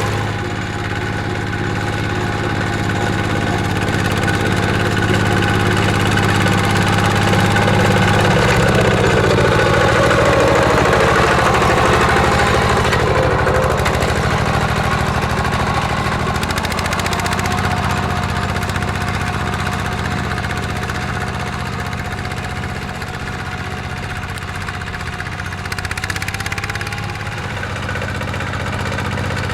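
Small tractor engine running steadily while ploughing. Its pitch drops about eight seconds in and shifts again a little past halfway.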